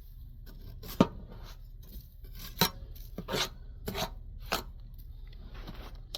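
Crunching and scraping in fresh snow about six inches deep, as a handful of sharp, irregular strokes.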